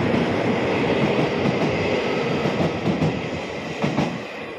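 Electric multiple-unit passenger train running past a station platform: a steady rumble with wheel clatter on the track, and a sharp clack about four seconds in as the last car goes by, after which the sound begins to fade.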